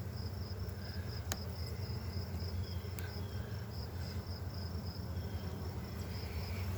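Honey bees buzzing steadily around an opened hive box during an inspection, with a high insect chirp pulsing about four times a second above the hum and a couple of faint clicks from the frames.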